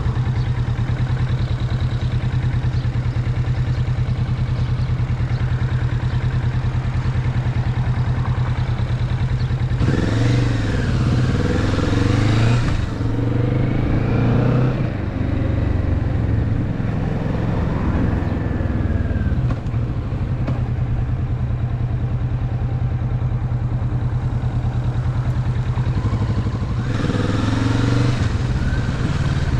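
Kawasaki Vulcan S 650's parallel-twin engine running steadily, then revving up with the pitch rising and falling several times about a third of the way in, again a little later, and once more briefly near the end.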